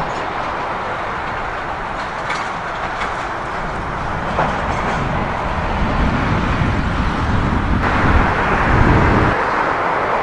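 Jet airliner's engines on approach or landing, a steady rush that grows louder over the last few seconds, with strong wind buffeting the microphone.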